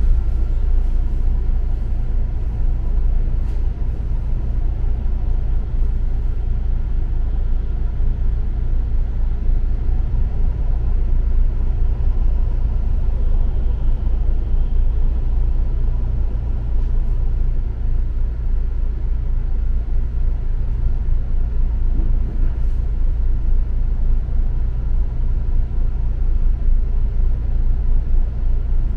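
Double-decker city bus underway, heard from on board: a steady low rumble of engine and road noise.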